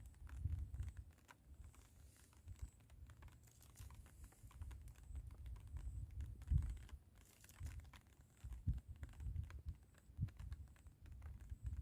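Wind buffeting the microphone in uneven gusts, a low rumble that swells and drops, with faint scattered small clicks over it.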